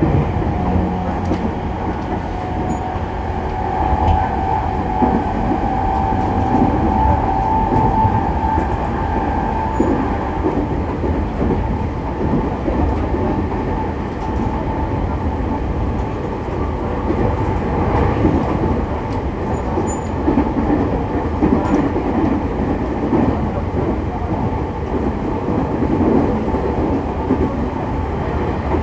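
Running noise inside the motor car of a JR East E501 series electric train: a steady rumble of wheels on rail with faint clacks over rail joints, and a hum from the traction motors and inverter that is strongest between about four and ten seconds in.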